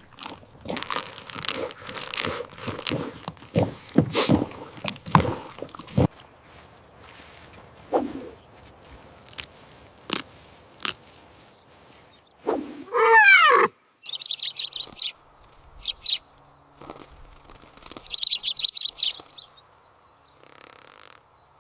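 A run of sharp clicks and knocks for about six seconds, then a short pitched call that rises and falls about halfway through. After that, birds chirp in several brief bursts.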